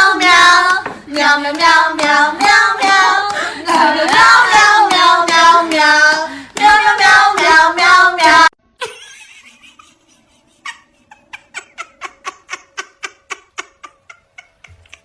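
A voice singing a long, wavering, high tune that cuts off abruptly about eight seconds in. It is followed by a run of light, quick taps, about five a second.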